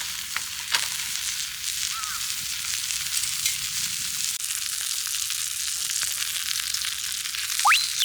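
Food sizzling and frying in an iron frying-pan dish, a steady hiss with fine crackles, with a short sharply rising squeak near the end.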